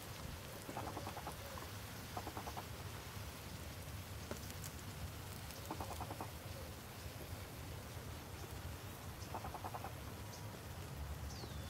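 A bird calling with short rattling trills, four times, and a brief high falling chirp near the end, over a steady low rumble.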